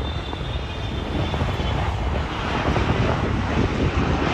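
Jet airliner on its landing approach, a steady engine roar with a high whine that fades about a second and a half in, the roar building slightly toward the end.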